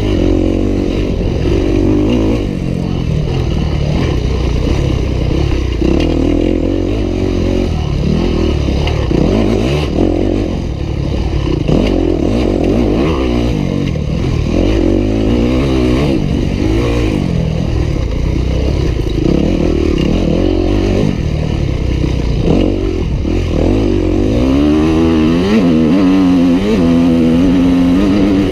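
Yamaha YZ250F single-cylinder four-stroke dirt bike engine being ridden hard, its revs rising and falling again and again through the gears, with a stronger run of revving near the end.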